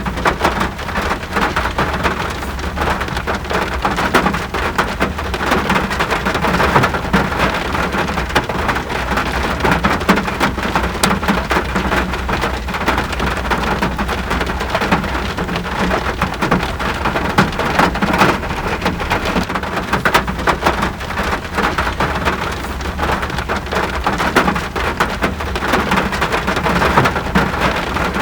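Steady rain: a continuous hiss thick with individual drops ticking, over an even low rumble.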